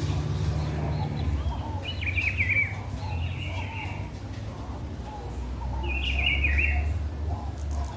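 Songbirds singing in short warbling phrases, about three of them, with fainter calls in between, over a steady low rumble.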